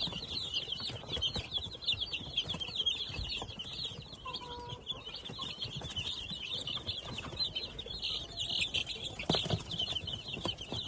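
A brood of month-old native chicks peeping, many short high cheeps overlapping without a break, with a few soft knocks among them and a louder one about nine seconds in.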